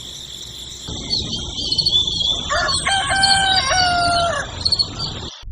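A rooster crowing once, a stepped cock-a-doodle-doo about two and a half seconds in that lasts about two seconds. Small birds chirp and a steady high-pitched tone sits underneath.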